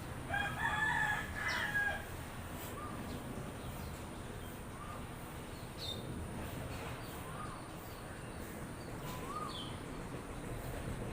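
A rooster crows once near the start, a pitched call of about two seconds, followed by a few short, scattered bird calls over a steady low background noise.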